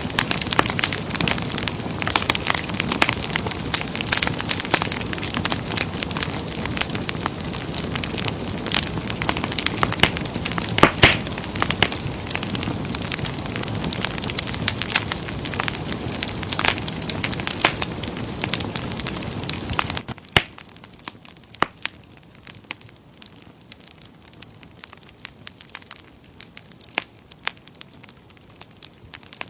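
Wood fire in a fireplace crackling and popping over a steady rush of flame, with a few louder pops about a third of the way in. About two-thirds through it drops suddenly to a much quieter, sparser crackle.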